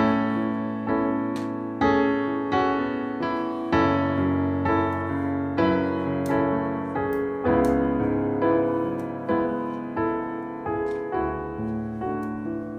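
Background piano music: soft chords and notes struck at an unhurried, even pace.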